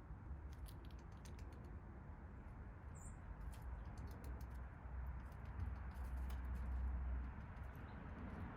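Faint, scattered sharp clicks and taps of small backyard birds pecking at seed, with one short high chirp about three seconds in, over a steady low rumble.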